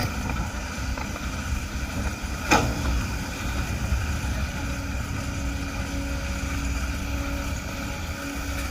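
Excavator's diesel engine running steadily under work, with a single sharp knock about two and a half seconds in.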